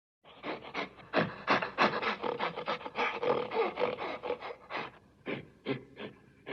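An animal panting rapidly in short rasping breaths, about three to four a second, starting just after a brief silence.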